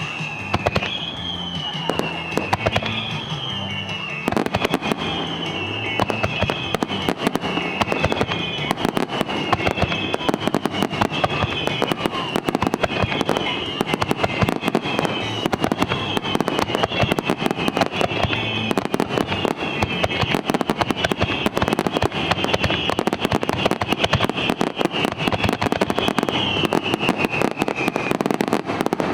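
Fireworks display: a dense, rapid run of pops and crackling bursts that thickens about four seconds in, with a string of short whistles falling in pitch roughly once a second, over background music.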